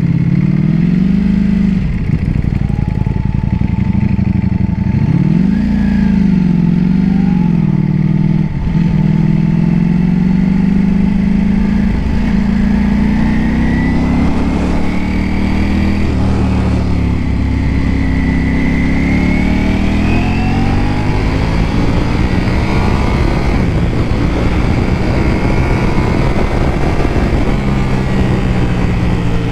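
Ducati V4 motorcycle engine running under way. Its pitch climbs and drops several times as it accelerates and changes gear, with a long steady climb through the middle.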